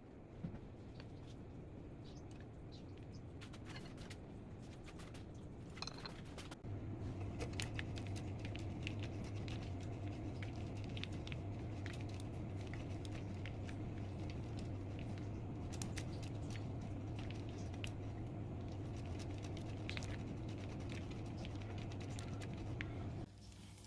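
Light crackling and scattered clicks of home cooking, with a steady low hum that switches on about seven seconds in and cuts off shortly before the end.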